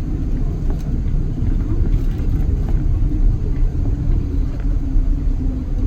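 Steady low rumble inside the cabin of a Boeing 777-200 airliner taxiing on the ground with its engines running, with a few faint clicks and rattles.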